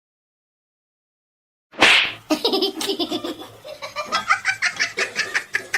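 Dead silence for nearly two seconds, then a sudden loud burst and a person's rapid, breathy laughter in quick repeated pulses.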